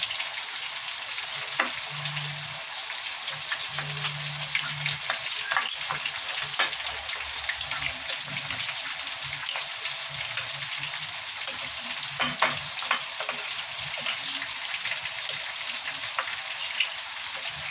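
Breaded chicken pieces deep-frying in canola oil: a steady sizzle with frequent small pops and crackles throughout.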